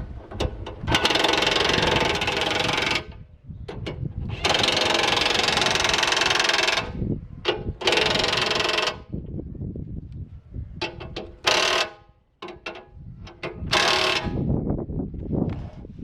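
Welding in short bursts, each a second or two of crackling arc that starts and stops abruptly: short stitch welds on steel.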